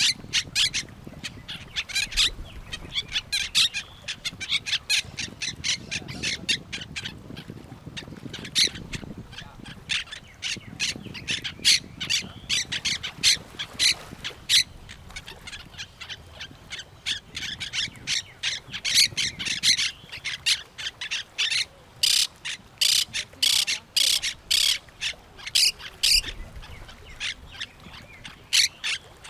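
Parrots squawking in a dense run of short, harsh calls repeated in quick succession, thickest about three-quarters of the way through.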